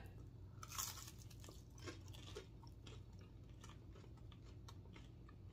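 Faint chewing of air-fried chicken-and-cheese nuggets, with a crisp bite about a second in and quieter chewing after it.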